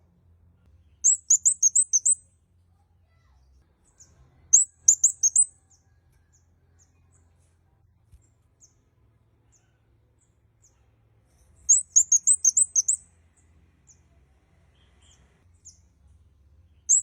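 Kemade kepala merah (red-headed kemade) singing: short bursts of very rapid, high, clear chirps, each about a second long, three times with long pauses between, and scattered faint single chirps in the gaps.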